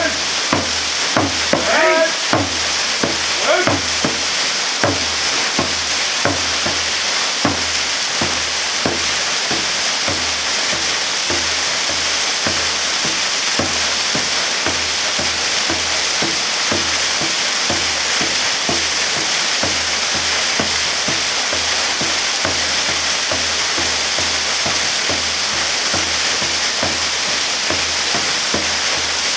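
Waterfall pouring and splashing in a steady, unbroken rush. A voice is briefly heard in the first couple of seconds.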